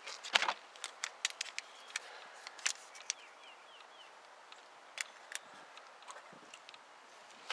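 Scattered sharp clicks and light knocks of new spark plug wires and their rubber boots being handled and pushed into place on the engine. A few faint high chirps come about three seconds in.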